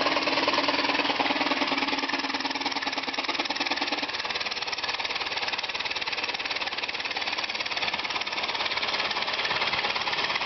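A 2 hp Briggs & Stratton model 62502 single-cylinder engine, converted to run on compressed air, running fast. It gives a rapid stream of air-exhaust pulses over a steady hiss, and a steady tone underneath stops about four seconds in.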